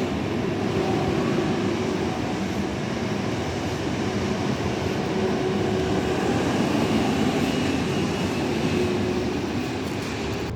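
A train running by: steady rail noise with a faint held whine.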